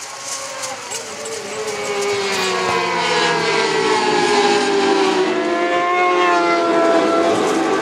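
Racing motorcycle engines at high revs going by on the circuit, their pitch sliding down and up as they pass, growing louder about two seconds in.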